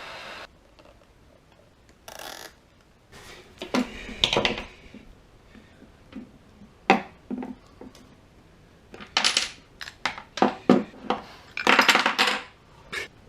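Small metal brake parts clinking and clattering as they are handled by hand, most likely the caliper and pads being taken apart: a string of separate clinks and short scrapes at irregular intervals, busiest near the end.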